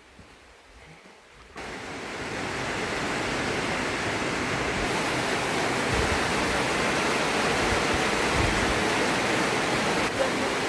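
Heavy rain falling, a dense steady hiss that starts abruptly about a second and a half in and builds a little over the next two seconds.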